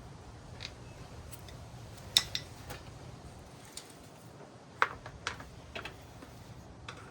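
Scattered metallic clinks and clicks of hand tools, bolts and washers being handled while motorcycle plastic panels are unbolted, about eight sharp ones spread unevenly, the loudest just after two seconds and near five seconds in.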